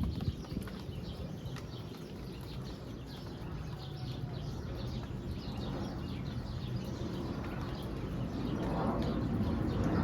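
Small birds chirping busily over the steady hiss of rain falling on the ground. The rain noise grows louder toward the end.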